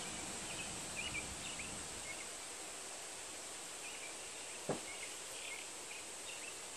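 Small birds chirping in short scattered calls over a steady background hiss, with a single sharp click about five seconds in.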